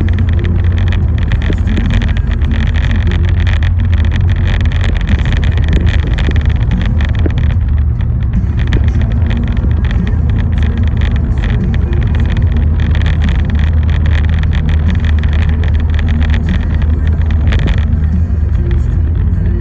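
Steady road noise heard from inside a car driving in the rain: a constant low rumble, with dense irregular crackling of rain and wet tyres over it.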